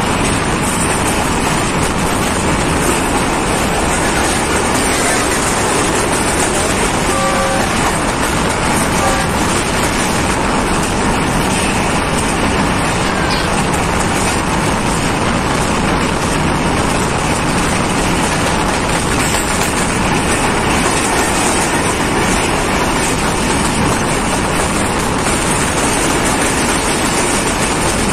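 Passenger train running at speed, heard from an open coach window: a steady, loud rush of wind and running noise. A short, faint horn toot comes from the locomotive about seven seconds in.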